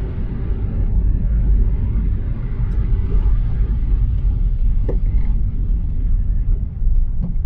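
Steady low road and engine rumble heard inside a moving car's cabin, driving on snowy city streets, with two brief faint clicks about five and seven seconds in.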